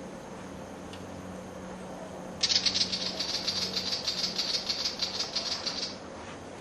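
Willie wagtail scolding: a fast, harsh rattling chatter of high ticks that starts about two and a half seconds in and lasts about three and a half seconds. It is an alarm call aimed at a butcherbird.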